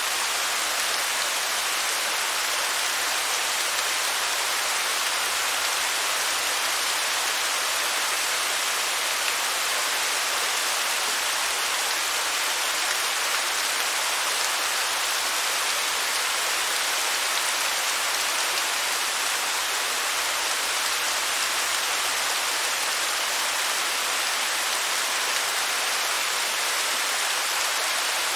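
Waterfall water falling and splashing in a steady, unbroken hiss-like rush.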